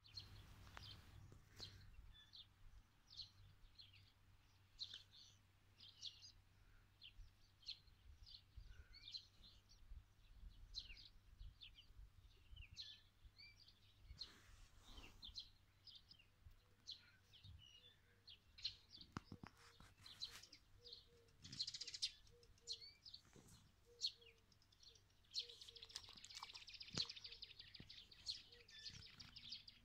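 Faint chirping of small birds: short high chirps scattered throughout, then a longer trilling run about 26 seconds in.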